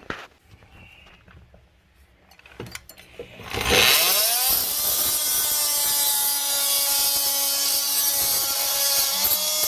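A handheld electric cutting tool starts about three and a half seconds in, its motor whine rising quickly to full speed, then runs steadily with a harsh hiss as it cuts through a seized toilet hold-down nut. Its pitch dips slightly near the end as it bites harder.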